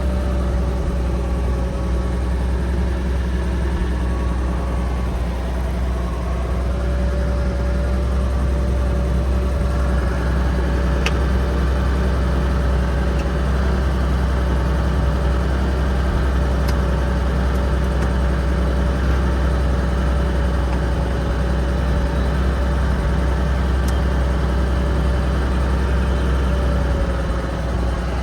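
1970 Toyota Land Cruiser's straight-six engine running steadily, with no change in pitch or load.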